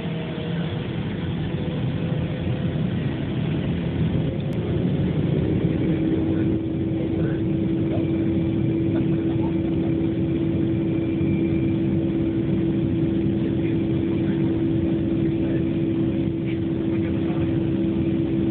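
Boeing 757 jet engines at takeoff power, heard from inside the passenger cabin during the takeoff roll. A loud, steady rumble builds over the first few seconds, and a steady engine tone comes in about five seconds in and holds.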